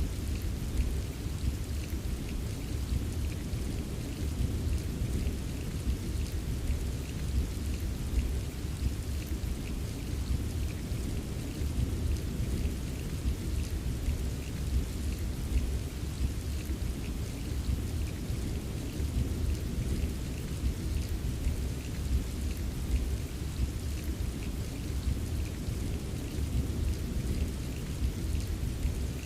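Steady rain with many small drops tapping, over a continuous low rumble of distant thunder. There is no single sharp thunderclap.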